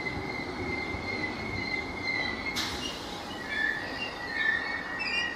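A train squealing with a steady high-pitched tone over the low rumble of the train; the squeal wavers and breaks up in the second half. A single sharp click sounds about two and a half seconds in.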